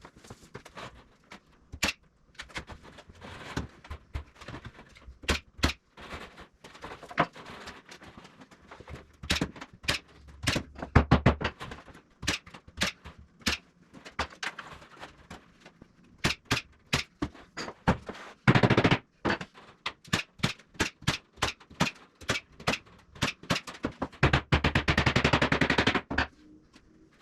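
Tool work on a wooden frame: a long series of sharp clicks and knocks, with a short dense rattle of rapid impacts about two-thirds in and a longer one near the end.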